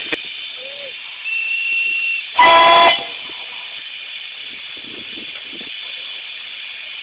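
Miniature steam locomotive's whistle giving one short blast about two and a half seconds in, over a steady hiss of steam. A fainter, thin whistle tone sounds for about a second just before the blast.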